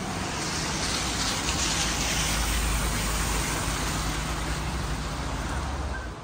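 Steady hiss of heavy rain on a wet street, with the low engine rumble of road traffic underneath; it cuts off suddenly at the end.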